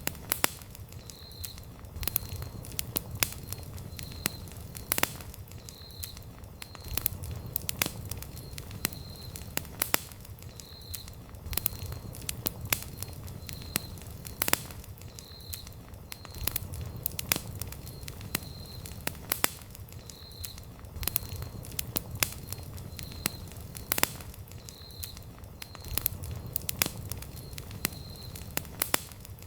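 Wood campfire burning, with sharp crackles and pops from the burning logs at irregular intervals over a low rumble. A faint high chirp repeats about once a second underneath.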